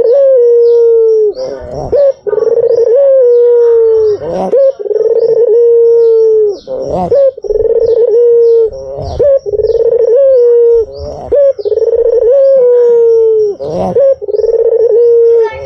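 White puter (Barbary dove) cooing over and over: about eight long, drawn-out coos, each held at one low pitch for a second or two with a short upward flick near its end. Faint high-pitched chirps repeat quickly behind them.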